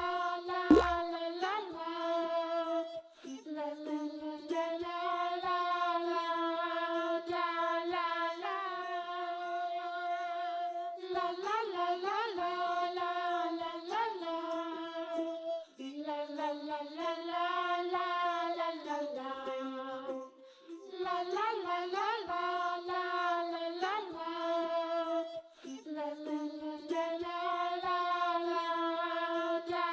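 Background children's song: a high, child-like voice singing a simple held melody in phrases with short pauses. A short rising boing-like glide sounds right at the start.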